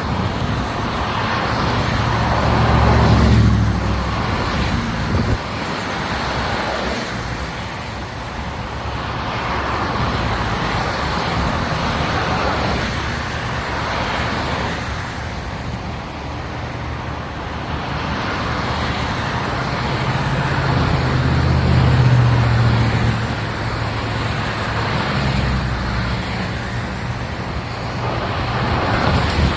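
Highway traffic noise: a continuous wash of tyre and engine sound, with louder low engine rumbles swelling and fading as vehicles pass, about three seconds in and again past twenty seconds.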